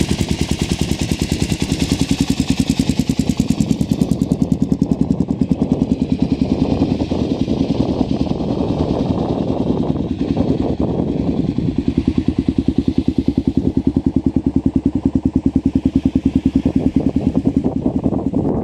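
Kawasaki KL600R single-cylinder engine running at a steady idle through a SuperTrapp exhaust, an even, rapid train of exhaust pulses that cuts in suddenly at the start.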